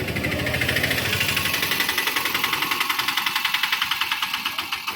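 Motorcycle engine running under way with a fast, even pulsing beat; the sound drops away sharply at the very end.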